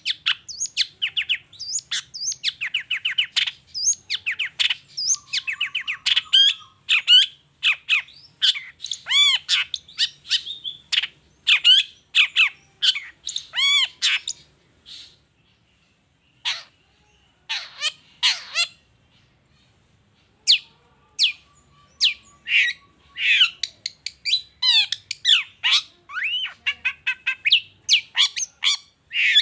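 Long-tailed shrike (cendet) singing a fast, varied song of sharp chirps and harsh squawky notes in quick runs. The song thins to a few scattered notes a little past halfway, then picks up again.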